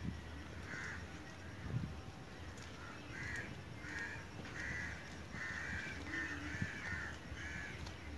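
A bird calling repeatedly: one short call about a second in, then a run of short calls, about one to two a second, from about three seconds in until near the end.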